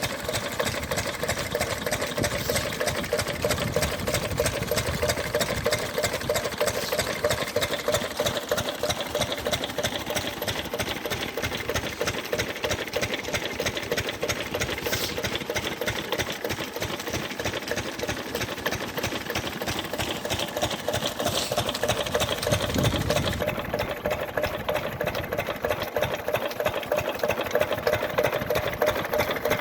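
Engines running steadily beside one another, with a fast, even mechanical clatter.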